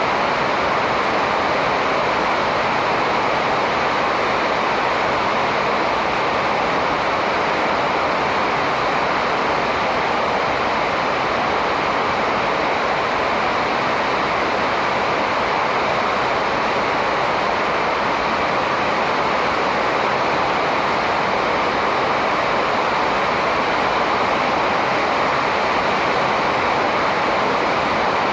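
Steady, even rushing noise that does not change; no birdsong stands out above it.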